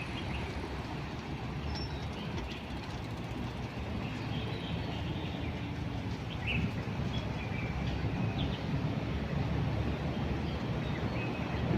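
Small birds giving short chirps now and then over a steady low rumble.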